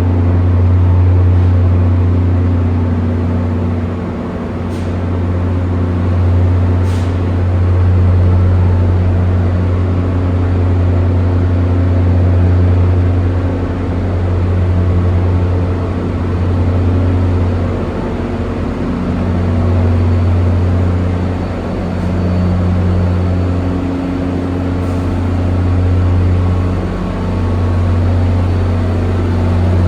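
A heavy transit vehicle running steadily with a deep, low hum that swells and eases every few seconds, with a few faint clicks.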